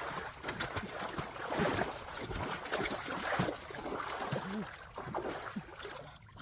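Irregular water splashing and sloshing: many small, uneven splashes one after another.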